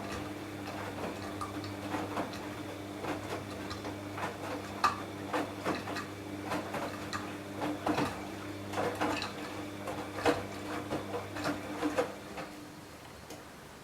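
Washing machine running: a steady motor hum with irregular clicks and clatters, which stop near the end.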